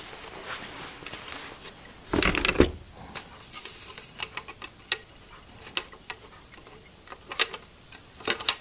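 Light clicks and knocks of a metal 2.5" to 5.25" drive adapter and its bracket being handled, with a louder rattling knock about two seconds in and scattered small clicks after it.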